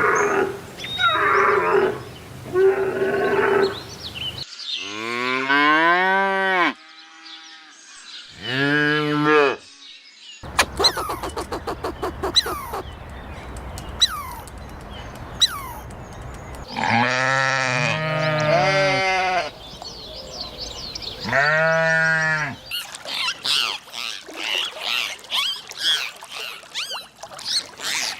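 Cows mooing: several long calls that rise and fall in pitch, with a couple of them close together. A few short meow-like calls come first, and rapid chirping and ticking comes between the moos and again near the end.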